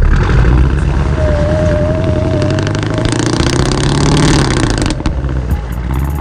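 Car engine revving hard. Its pitch climbs over a few seconds, then drops off about five seconds in.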